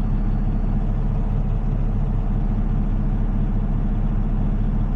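Heavy diesel engine of a tow truck running steadily at a constant low hum, with no revving.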